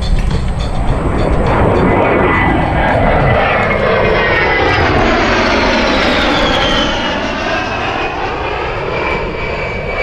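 A-10C Thunderbolt II jet with its twin turbofan engines making a low, loud pass, with a high whine that falls steadily in pitch as it goes by.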